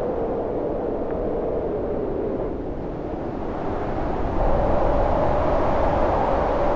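Storm wind howling, a steady rush with a hollow moaning pitch that dips slightly, then rises and swells louder about four and a half seconds in.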